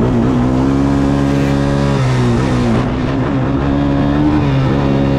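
Dirt bike engine revving. It rises in pitch about half a second in, drops back around two seconds, and climbs again near the end, over a steady lower hum.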